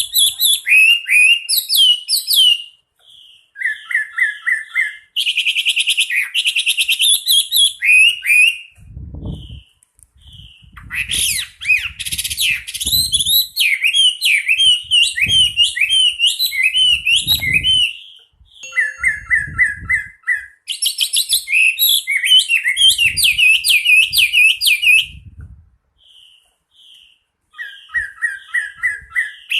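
Chinese hwamei singing: long, varied phrases of rapid whistled and trilled notes, some repeated in quick runs, separated by brief pauses. Faint low thuds sound beneath the song in the middle stretch.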